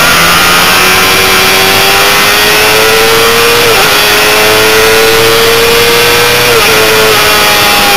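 Honda CBR600RR inline-four engine accelerating hard on a racetrack, its pitch climbing steadily and dropping sharply at two upshifts, about four and six and a half seconds in. A steady rush of wind noise on the mounted camera lies under it.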